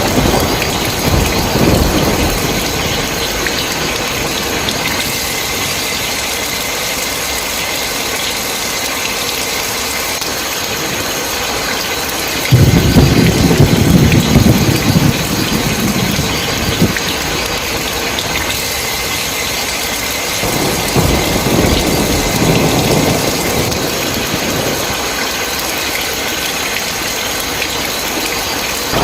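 Steady heavy rain with rolling thunder. A loud thunderclap breaks in suddenly about halfway through and rumbles away over several seconds, with lighter rumbles near the start and later on.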